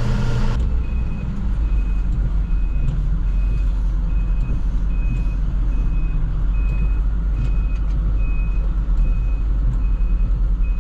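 Plow truck's engine running with a steady low rumble, heard from the cab. A high, even beep repeats about twice a second, typical of the truck's reversing alarm as it backs up. A short burst of radio noise cuts off about half a second in.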